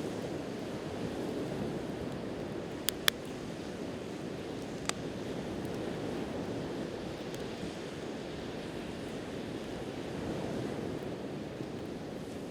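Steady wash of sea surf, with a few sharp pops and crackles from a wood campfire: two close together about three seconds in and one near five seconds.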